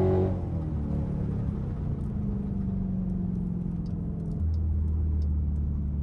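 Straight-piped Dodge Durango exhaust: a rising rev ends just after the start, then the engine settles into a steady low drone that deepens and grows a little louder about four and a half seconds in.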